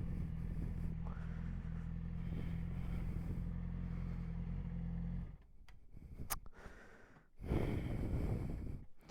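Yamaha R6's inline-four engine idling steadily with a low, even hum, then stopping abruptly a little over five seconds in. A few faint clicks and a short burst of rustling noise follow near the end.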